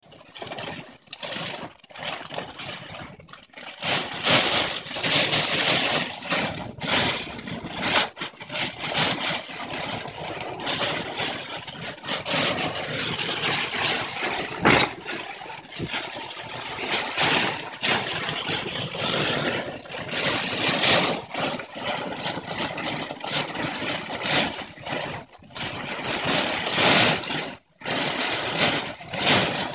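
Strong storm wind gusting and buffeting a car: loud rushing noise that swells and eases, with several brief sudden drop-outs.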